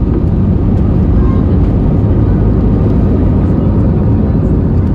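Airbus A320 cabin noise: a steady, loud low rumble of the engines and airflow heard from inside the cabin.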